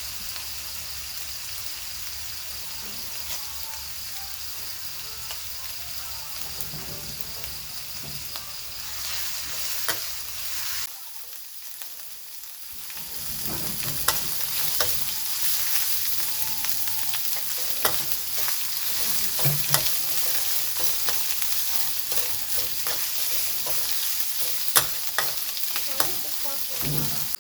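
Food sizzling as it fries in a pan, with scattered clicks of a utensil stirring it. The sizzle drops away briefly near the middle, then comes back louder.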